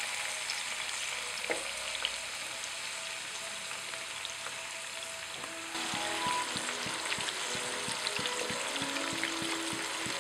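Chicken pieces sizzling in hot coconut oil in a shallow frying pan, a dense fine crackle that gets louder a little over halfway through.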